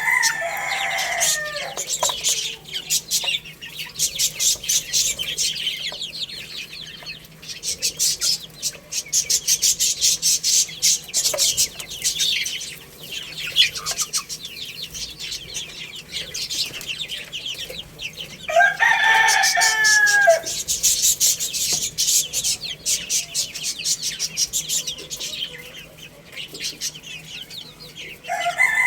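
A crowd of chicks peeping rapidly and without pause, while a rooster crows: the tail of one crow at the start, one full crow of about two seconds about two-thirds of the way in, and another beginning right at the end.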